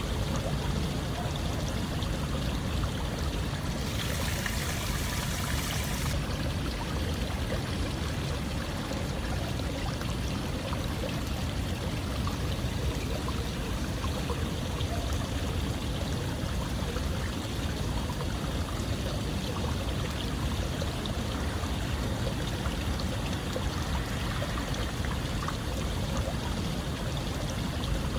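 Steady running water, an even trickling flow like a small stream, with a brief brighter hiss about four seconds in.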